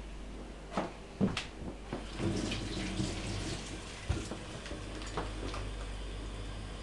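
Water splashing as a Persian cat drinks, over a steady run of water, with a handful of sharp splashes at irregular intervals.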